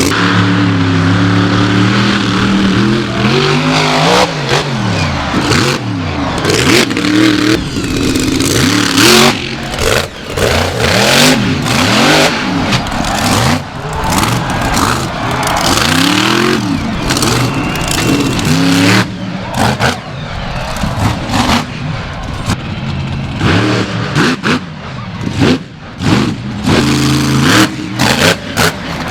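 Monster truck engine revving hard, its pitch rising and falling again and again as the throttle is blipped, with many sharp bangs and knocks mixed in.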